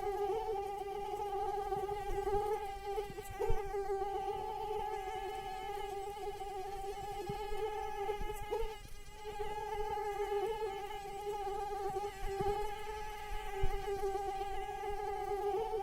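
Female mosquito's wings whining in flight: a steady high buzz that wavers slightly in pitch and briefly fades about nine seconds in before coming back.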